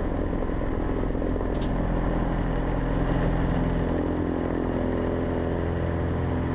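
Cessna 150's four-cylinder Continental O-200 engine and propeller running at full power for take-off, a steady drone heard from inside the cockpit.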